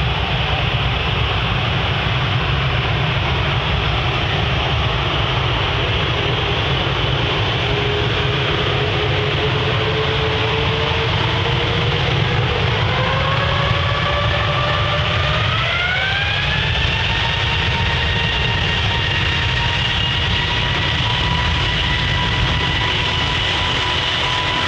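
Jet aircraft engines running with a steady low noise. A whine comes in and rises in pitch in two steps over several seconds, then holds steady, as the engines spool up.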